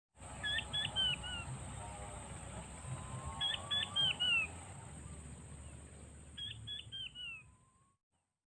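A bird calling three times, each call a quick phrase of about four high whistled notes that fall in pitch, over a steady high-pitched whine.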